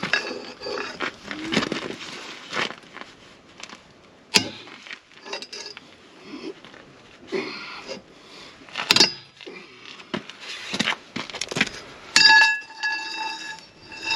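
Steel hand tools knocking, scraping and clinking against a tractor wheel's bolts, with several sharp metallic strikes. About twelve seconds in, a struck piece of metal rings clearly for a couple of seconds.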